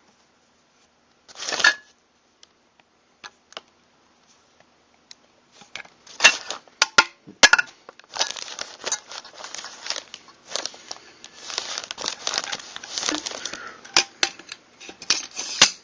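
Metal pump-action shotgun parts being handled: a brief scrape about one and a half seconds in and a few faint clicks, then from about six seconds in a busy run of clicks, clinks and scraping as the pieces are moved and fitted.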